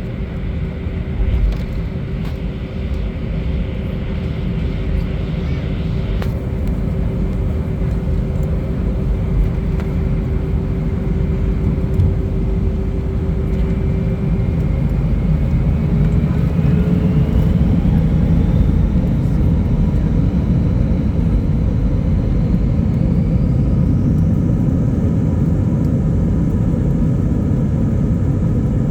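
Airbus A319's IAE V2500 turbofan engines spooling up: a low steady rumble that grows slowly louder, with a whine that starts rising in pitch about halfway through and keeps climbing.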